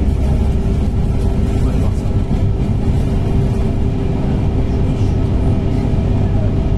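Running noise of a TER regional train at speed, heard from inside the passenger carriage: a steady low rumble with a steady hum held on one note.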